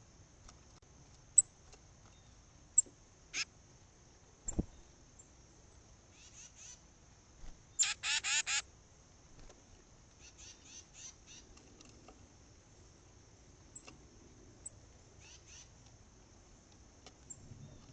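Tufted titmice calling: scattered sharp high chips and short notes, with a loud run of four rapid repeated notes about eight seconds in.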